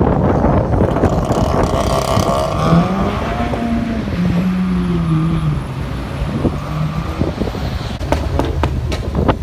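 Sports car engine accelerating, its note climbing and then falling away over a few seconds, with a few sharp cracks near the end, all over a steady wash of rain and wind noise.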